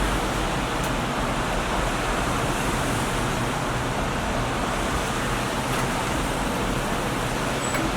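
Steady, even background noise with a constant low hum underneath and a faint tick or two.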